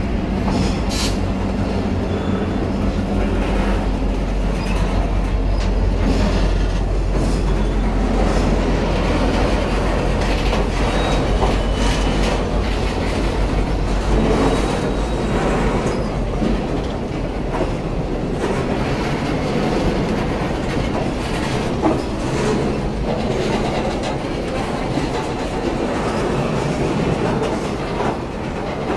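Train running along the track, a steady rumble with wheels clicking and knocking over the rail joints and faint wheel squeal.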